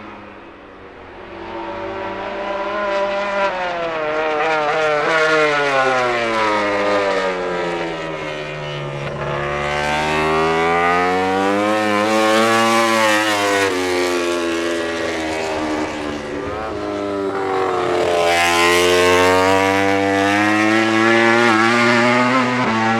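MotoGP prototype racing motorcycle engine running at high revs on track, its pitch falling and rising several times. It starts quieter and is loud for the rest.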